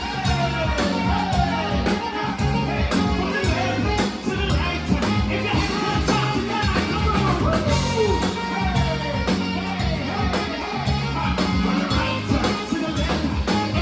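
Live rock band playing an instrumental stretch: drum kit and bass keep a steady beat under a lead line whose notes slide down in pitch.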